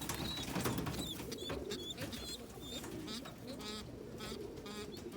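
Domestic pigeons cooing, a continuous low warbling, with short higher chirping calls repeating over it.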